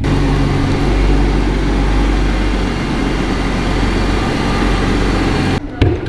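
Toyota Supra MK5's B58 straight-six idling steadily. The sound cuts off abruptly near the end, followed by a short click.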